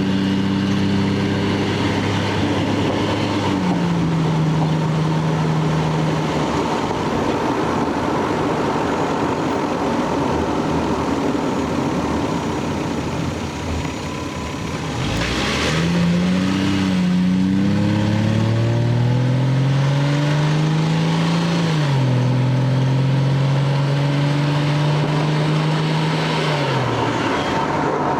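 Lexus GS300's 2JZ straight-six engine and exhaust running while the car is driven. The engine note holds steady, steps down in pitch a few seconds in, eases off in the middle, then climbs under acceleration, drops back near the end as with an upshift, and holds steady again.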